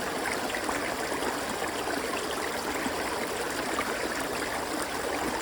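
A river flowing steadily, water rushing and babbling over stones with small splashes.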